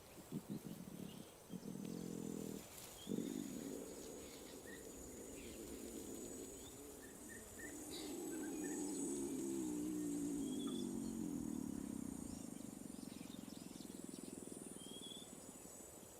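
Lions making low, drawn-out calls: a few short ones in the first three seconds, then a long call that swells and fades in the middle. Insects keep up a steady high whine, with a few bird chirps.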